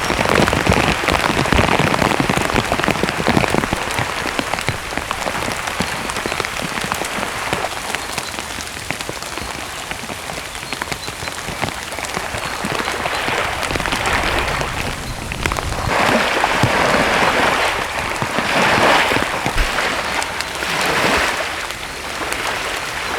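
Heavy rain pouring down steadily, swelling louder in several waves during the second half.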